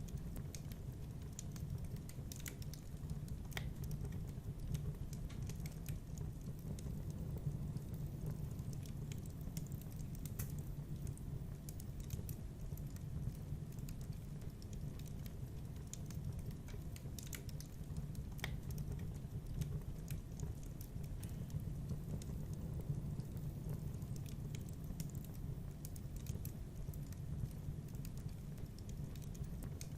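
Wood fire burning in a fireplace: a steady low rumble with scattered, irregular crackles and small pops.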